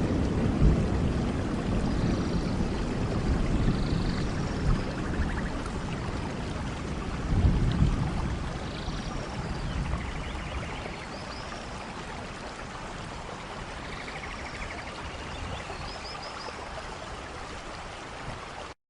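Steady rain falling. A heavy low rumble eases off over the first half, and a few faint high chirps come through. The sound cuts off suddenly just before the end.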